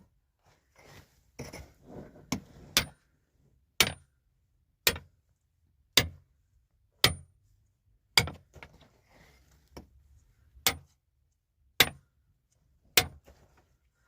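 Sharp knocks repeating at an even pace, about one a second, with faint rustling between some of them.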